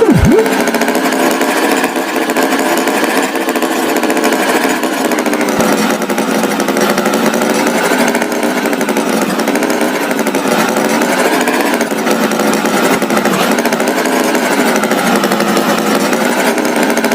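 Loud, steady buzzing engine of a cartoon tractor sound effect, its pitch wavering slightly throughout, with a quick swooping tone right at the start.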